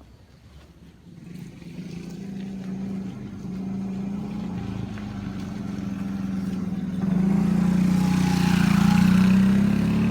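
Motorcycle engine running at a fairly steady pitch. It grows louder from about a second in and louder again about seven seconds in.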